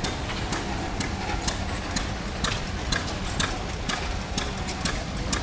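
An antique tractor engine running slowly, with sharp, evenly spaced beats about two a second over a steady low rumble.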